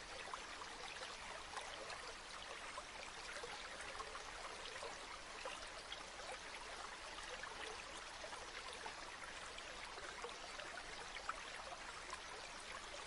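Gently flowing river water: a steady babble with many tiny splashes and drips.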